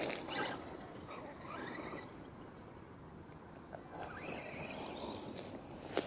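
Brushless electric RC monster truck running some way off, a faint whine that changes pitch over tyre and gravel noise, with one sharp click near the end.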